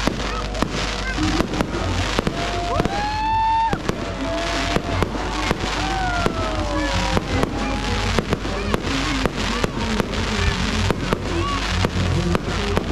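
Aerial fireworks exploding in a rapid, continuous string of bangs, pops and crackles.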